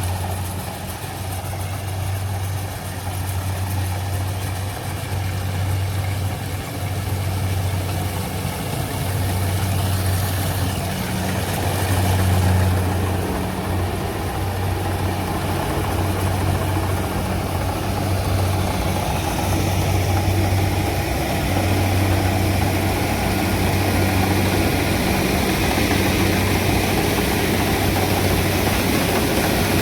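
A farm machine's diesel engine runs steadily with a low hum.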